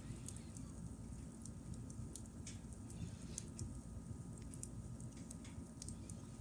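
Campfire crackling: irregular sharp pops and ticks of burning wood over a steady low rumble of the fire.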